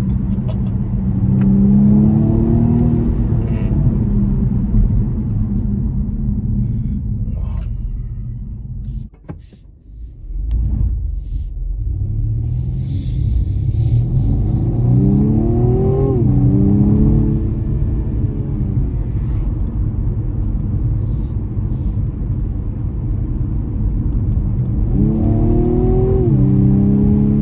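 BMW M135i's 2.0-litre turbocharged four-cylinder engine pulling hard under acceleration over a heavy low rumble. The engine note climbs and falls back sharply with an upshift about halfway through and again near the end, and the sound drops away briefly around a third of the way in.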